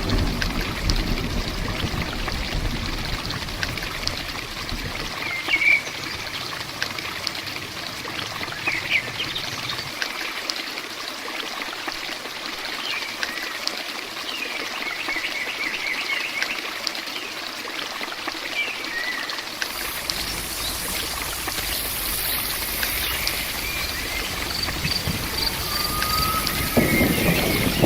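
Steady rain with water trickling and running, while birds chirp briefly now and then. A low rumble dies away in the first few seconds, and a high insect trill comes in during the second half.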